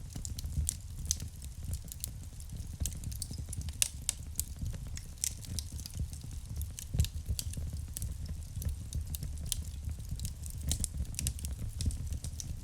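Wood fire burning in a fireplace: constant irregular crackling and snapping of burning logs over a low, steady rumble of the flames.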